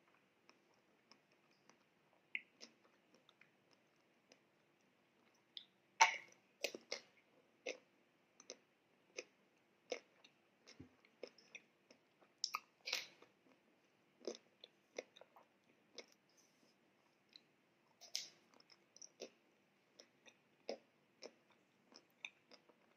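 Close-up chewing and mouth sounds with scattered crisp crackles, as a Magnum almond ice cream bar's chocolate shell with almond pieces is bitten and chewed. The louder crunches come about six, thirteen and eighteen seconds in.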